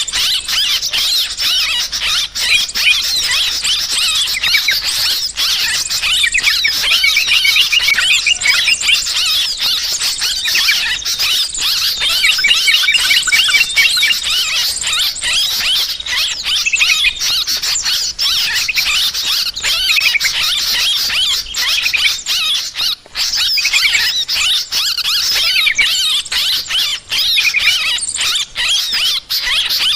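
A noisy flock of yellow-vented bulbuls mixed with small songbirds, giving dense, continuous, overlapping shrill chattering calls. This is agitated 'ribut' commotion calling of the kind played as a trapping lure.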